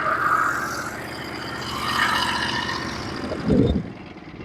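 Small gasoline engine of a Norwood HD36v2 portable sawmill running steadily at idle, with a brief louder sound about three and a half seconds in.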